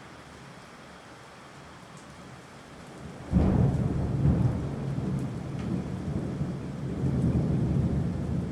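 Steady rain, then about three seconds in a sudden loud clap of thunder that rolls on as a low rumble through the rain.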